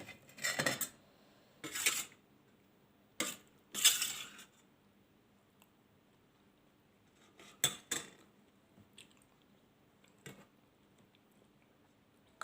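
Cutlery clinking and scraping against dishes in short, separate strokes. Several come close together in the first few seconds, then a couple more past the middle and one more later on.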